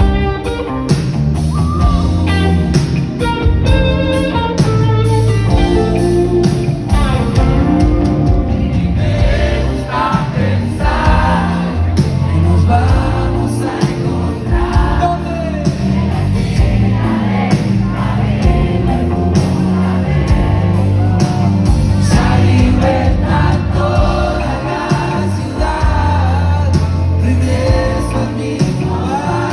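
Live rock band playing a song with singing over guitars, bass and drums.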